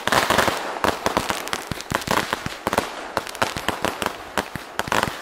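Consumer fireworks going off in quick succession: a dense, irregular string of sharp pops and bangs, several a second, with no pause.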